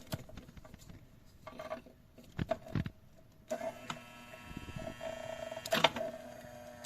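Small electric nail drill motor starting up about halfway through and running with a steady whine, amid clicks and knocks of handling.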